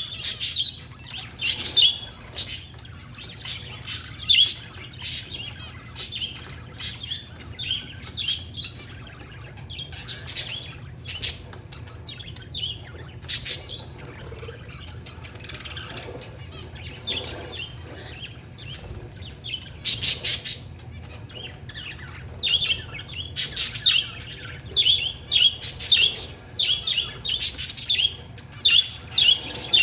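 Pet parakeets and zebra finches chirping: short, rapid calls in busy runs that thin out through the middle and pick up again near the end, over a faint steady low hum.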